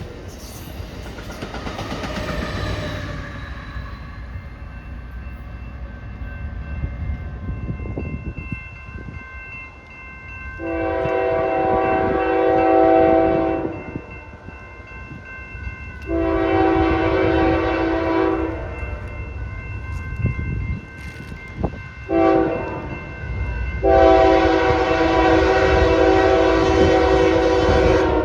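Train horn sounding a chord of several notes in the pattern long, long, short, long, the standard grade-crossing signal, over the low rumble of a moving train.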